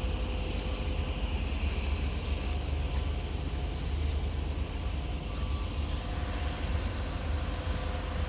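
Steady low rumble of a train running, with a faint steady hum above it.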